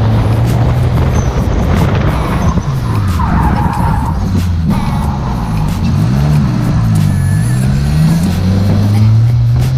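A car engine running hard on a drift course. Its note holds steady, then swings rapidly up and down several times in the middle as the throttle is worked, over a steady rushing noise.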